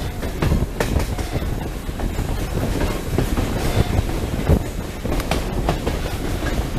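A train rolling on the track, its wheels clicking irregularly over the rail joints over a steady low rumble.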